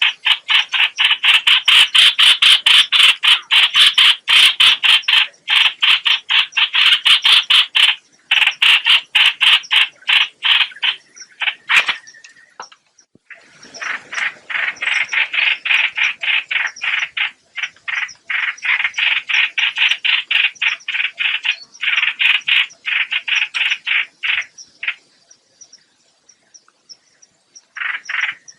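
Lure-call recording of the bird called 'hoạch hoạch' in Vietnamese: long runs of rapid, raspy, croaking notes, several a second, broken by short pauses about 8 s and 12 s in, and a longer pause near the end.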